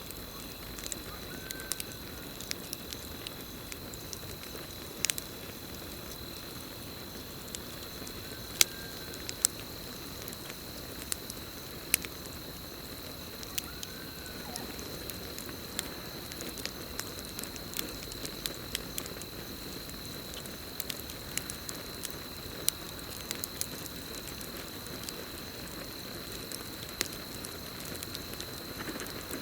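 Campfire crackling, with irregular sharp pops and snaps over a steady hiss, the loudest pops about 8 and 12 seconds in. A steady high cricket trill runs underneath, and three short rising-and-falling calls come in the first half.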